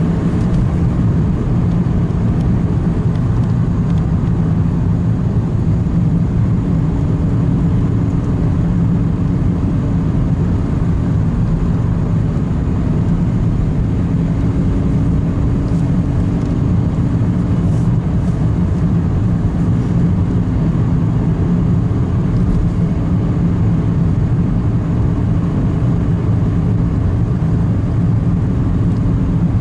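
Steady engine and road noise inside a moving car's cabin: an even low drone with a faint hum.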